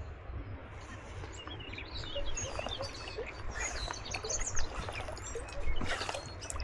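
Small birds chirping and twittering in quick, overlapping calls that grow busier about a second and a half in, over a steady low rumble.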